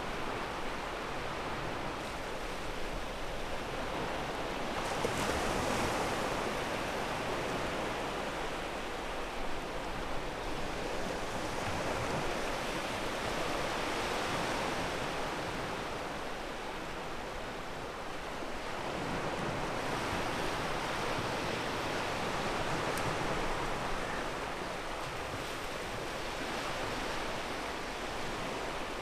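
Sea waves breaking and washing over a pebble beach, a steady rush of surf that swells and eases every several seconds.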